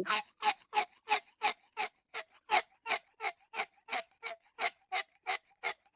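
Clock ticking, a sharp even tick about three times a second, used as a quiz countdown timer.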